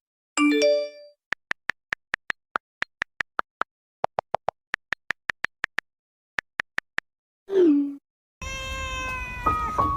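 A domestic cat meowing, with a falling call about two thirds of the way in and more meows over music near the end. Before that comes a long run of quick, even clicks, about four a second.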